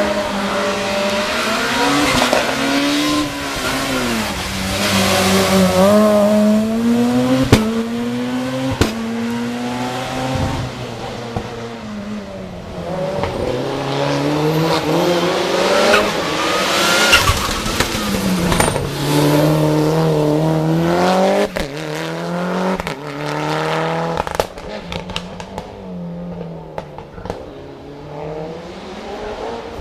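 Hill-climb racing car engine at high revs, its pitch climbing and dropping sharply again and again as it shifts through the gears. Near the end it grows fainter, with a run of quick crackles and pops.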